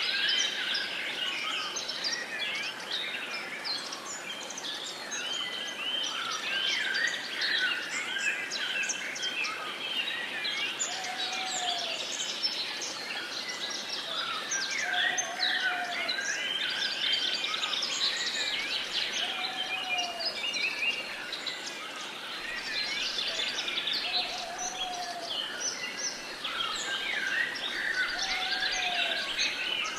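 A dense chorus of many songbirds singing and chirping at once. A short, lower call repeats about every four seconds beneath it.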